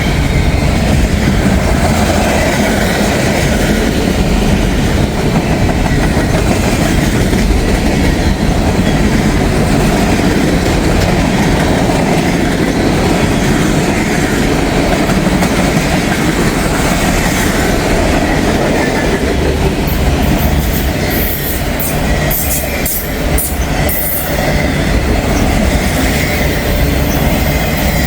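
A long freight train of about 600 axles rolling steadily past at close range: the continuous rumble and clatter of the cars' wheels over the rail, with a faint, steady wheel squeal.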